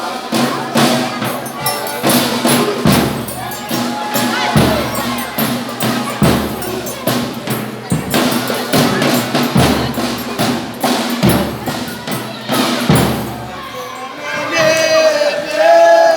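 Folia de Reis percussion playing. A deep drum beats about every second and a half under fast, rattling, clicking strokes. Voices sing at the start and again near the end.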